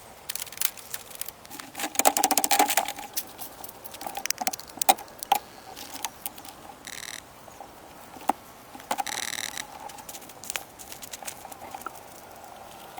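Irregular light clicks, taps and knocks, busiest a couple of seconds in, with two short high buzzing sounds about seven and nine seconds in.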